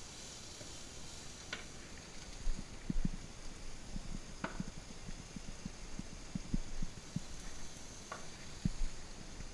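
Vegetables sizzling in a frying pan, a steady hiss, with three short sharp clicks and a run of dull low thumps from about two seconds in as bottles are handled at a cupboard.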